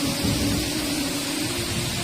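Heavy rain pouring down steadily, with a low, uneven rumble beneath it and a faint steady hum.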